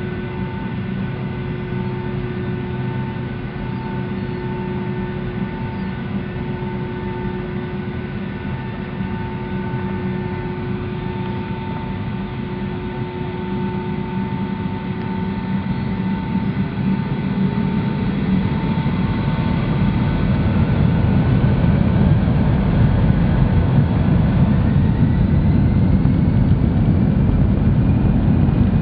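Boeing 757-200 jet engines heard from inside the cabin: a steady hum with a pulsing tone, then about halfway through the engines spool up for the takeoff roll. A whine rises in pitch and the roar grows steadily louder.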